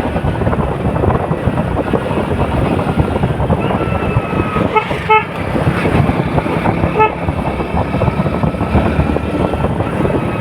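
Steady engine and road noise of traffic, with a cluster of short horn beeps about five seconds in and one more about two seconds later.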